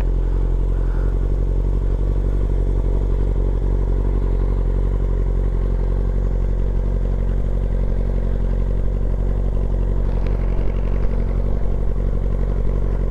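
Motorcycle engine idling steadily, its pitch holding level throughout.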